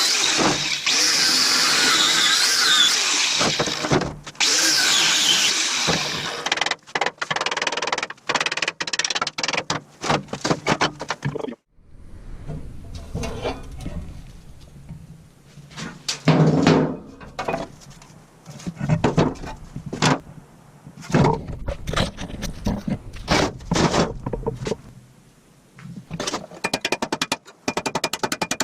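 Hand and power tool work on a rusty cast iron stove: a tool runs loudly for about the first six seconds, then comes a long run of irregular knocks and clatters.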